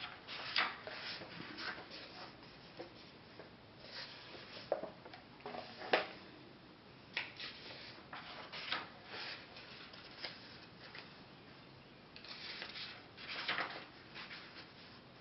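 Paper pages of a paperback coloring book being turned and handled, with irregular soft swishes and sharp little snaps of paper, and a longer rustle near the end.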